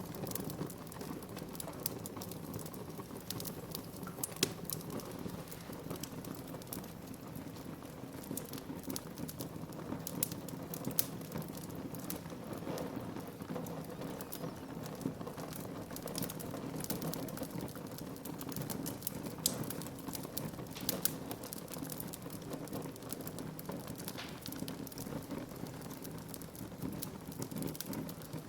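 Wood fire crackling steadily, with frequent sharp pops and snaps over a constant low noise from the burning logs.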